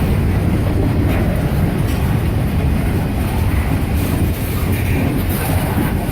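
CSX manifest freight train's cars rolling slowly past, a steady low rumble of wheels on rail with faint clicks at the rail joints.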